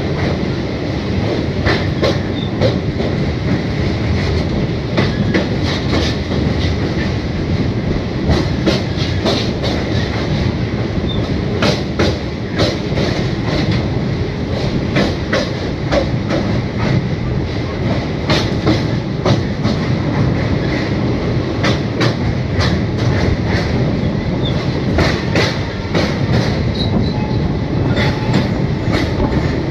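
Train running over a steel truss rail bridge, heard from on board: a steady low rumble with irregular clacks and knocks from the wheels on the rails.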